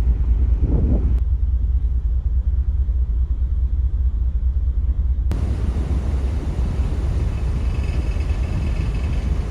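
Steady low rumble of a moving vehicle, with the background changing abruptly about a second in and again about five seconds in.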